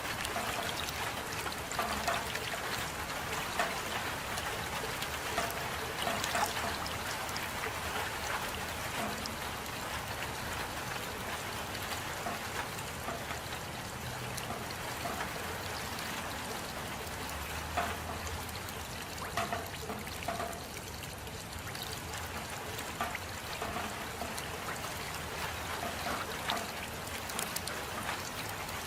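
Steady rain, an even hiss with scattered louder drops and trickling water.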